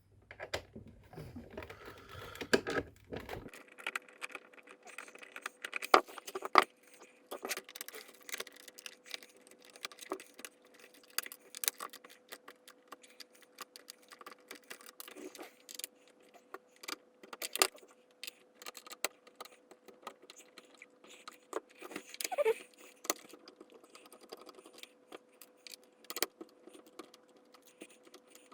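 Irregular small metallic clicks and clinks of a screwdriver working oval-headed screws out of a plastic coffee-machine casing, with handling knocks on the casing. A faint steady hum lies underneath.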